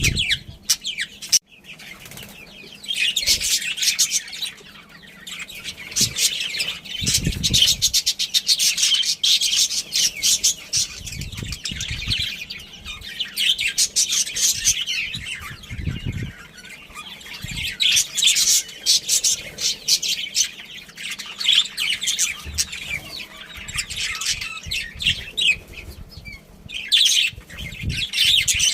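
A flock of budgerigars chattering and warbling continuously in fast, high chirps, with a few short low thumps in between.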